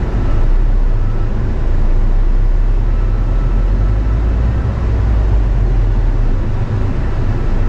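Steady low rumble of a manual-transmission car's engine and road noise, heard from inside the cabin while it is driven. The rumble grows heavier for a few seconds in the middle.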